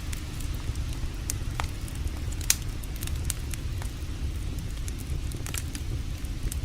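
Campfire crackling, with scattered sharp pops, the loudest about two and a half seconds in, over a steady low rush of creek water.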